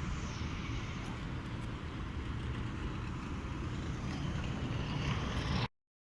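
Steady road traffic noise with a low rumble of passing cars, cutting off abruptly near the end.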